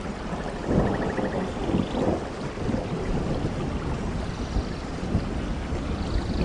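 Steady rain in a rainforest, with low rumbles of thunder swelling and fading, and faint high trilling calls over the rain.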